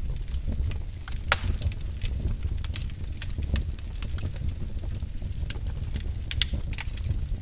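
Wood fire burning in a fireplace, crackling with sharp irregular pops over a steady low rumble of the flames. The loudest pop comes about a second in.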